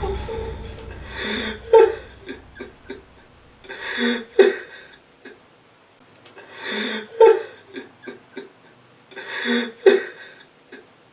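A person's breathy vocal sounds, in four bursts about two and a half seconds apart, each rising to a sharper peak at its end.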